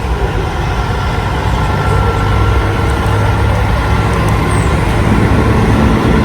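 Big-rig truck diesel engines running steadily in a passing convoy, a low heavy hum that grows a little louder about a second and a half in.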